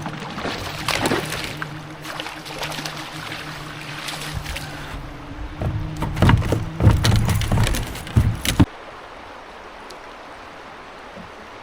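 Water splashing and hollow knocks against a plastic kayak hull over a steady low hum, loudest in a cluster of knocks about two-thirds of the way in, then cutting off abruptly to a quiet hiss.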